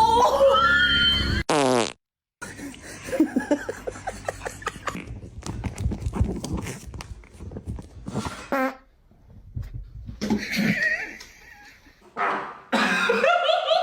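A long, sputtering fart made of rapid flapping pulses, lasting several seconds, with other short sounds and pitched voices near the end.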